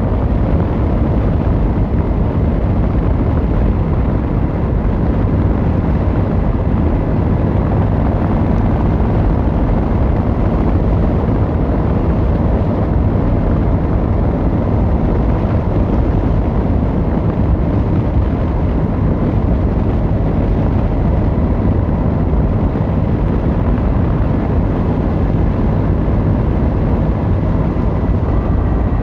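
Yamaha XVZ1300 Royal Star's V4 engine and exhaust heard while the motorcycle is ridden at a steady pace, a low, even drone.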